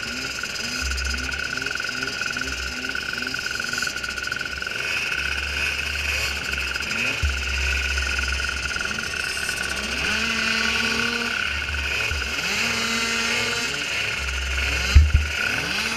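Small micro ATV engines idling with a quick, pulsing beat, then being revved up and held several times. A sharp knock comes near the end.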